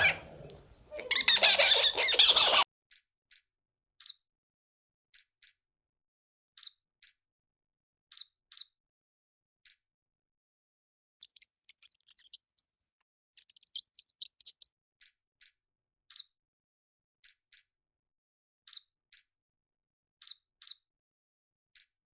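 A small animal giving short, very high-pitched squeaks, mostly in pairs about a second apart. It follows a noisy animal sound that cuts off a couple of seconds in.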